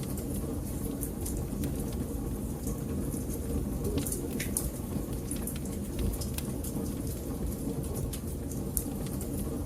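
Wood fire in a fireplace crackling: a steady low rumble of flames, with irregular sharp pops and snaps throughout.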